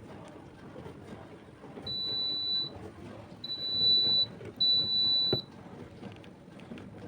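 Electronic beeper of a kitchen appliance sounding three long, high-pitched beeps in a row, the third ending with a click.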